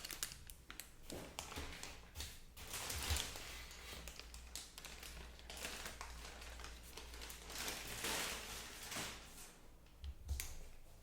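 Quiet handling sounds: soft crinkling with scattered light taps and clicks.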